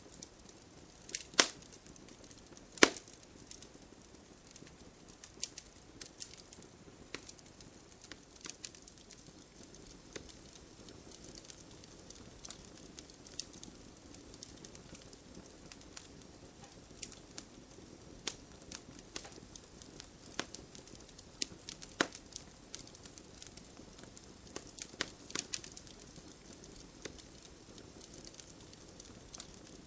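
Wood fire crackling with irregular sharp pops, two of them much louder about a second and a half and three seconds in, over a steady hiss of gentle rain.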